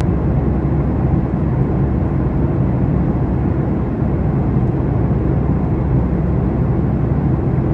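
Steady low rumble of a vehicle running, even and unbroken.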